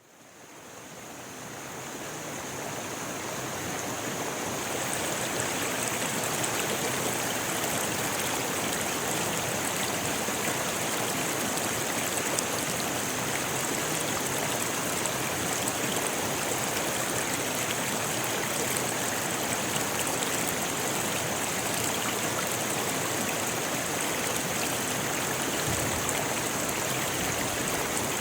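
A rocky river rushing steadily over stones, fading in over the first few seconds.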